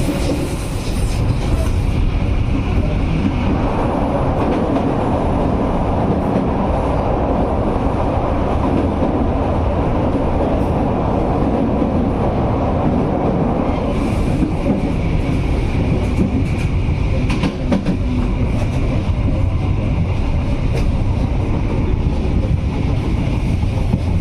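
Passenger train running along the track: a steady rumble of wheels on rails, louder and rushing through the first half, with scattered faint clicks later on.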